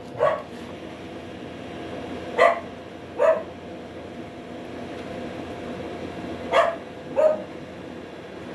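A dog barking five times, roughly in pairs, over the steady whir of the Ford Fiesta's electric radiator cooling fan running at low speed during an actuation test.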